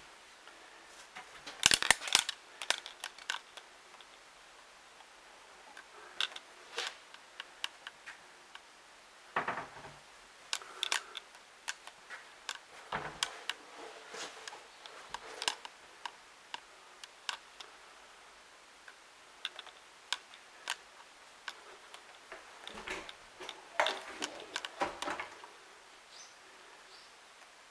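Scattered sharp clicks and knocks in an empty room, the loudest cluster about two seconds in and more bunched near the end. This is handling noise of a handheld camera being carried through the room.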